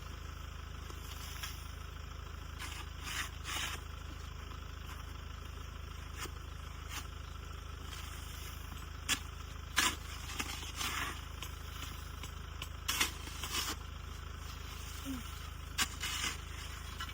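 Snow shovel scraping and scooping snow in short, separate strokes, about nine of them, over a steady low rumble.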